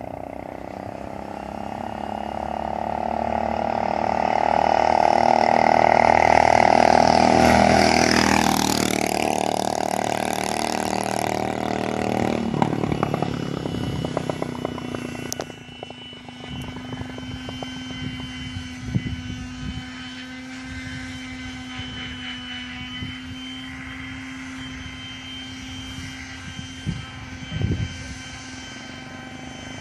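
Predator 212 single-cylinder four-stroke engine on a motorized bicycle running hard as the bike approaches, getting louder, then passing with a sharp drop in pitch about eight seconds in and fading away. After that a quieter, steady engine hum with a few short knocks.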